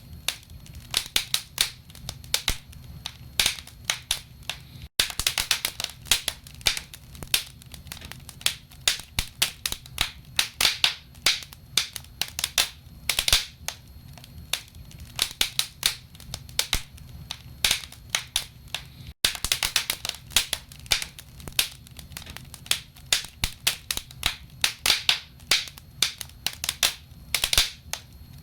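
Wood fire burning in a fireplace: logs crackling and popping in dense, irregular snaps over a low steady rumble of the flames.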